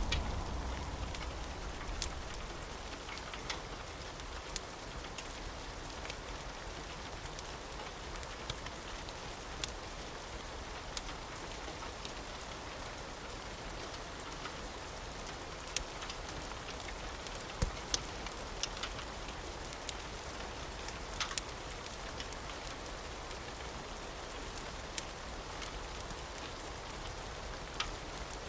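Steady rain falling, with scattered sharp pops and crackles through it. A low thunder rumble dies away over the first couple of seconds.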